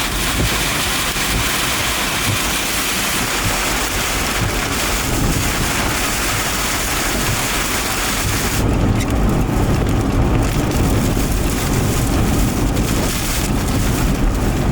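Heavy rain and gusting wind on the microphone in a thunderstorm, a loud, steady hiss. About nine seconds in the hiss drops away and a deeper rumble takes over.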